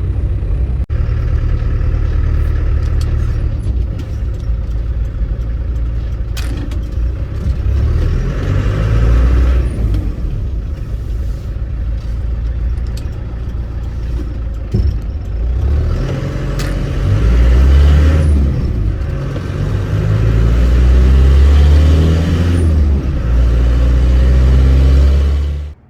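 Land Rover Defender's 300Tdi turbo-diesel engine and road noise while driving, a heavy low drone that swells louder in stretches, with a few scattered clicks and rattles.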